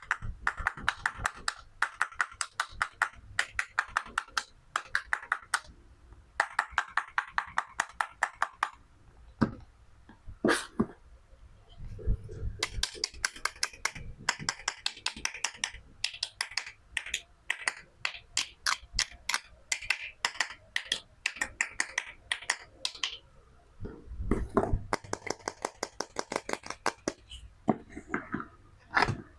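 Toy fruit and vegetables being cut with a toy knife: runs of rapid crackling clicks, each lasting a second or two, separated by short pauses, with a few duller knocks of pieces against the board.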